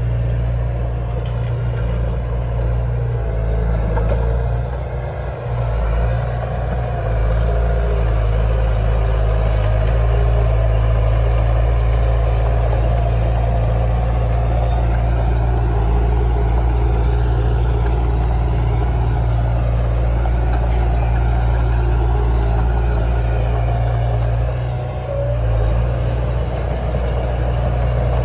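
Heavy diesel engine of earthmoving machinery running steadily with a deep low rumble. It dips briefly about five seconds in and again near the end.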